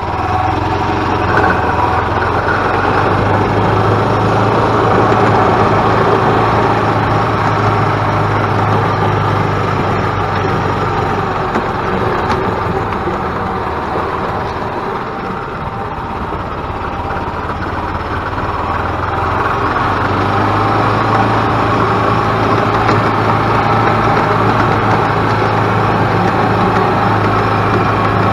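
Freshly rebuilt single-cylinder gas engine of a Yamaha G16 golf cart running steadily on its first drive after the rebuild, sounding smooth. It eases off for a few seconds about halfway, then picks back up.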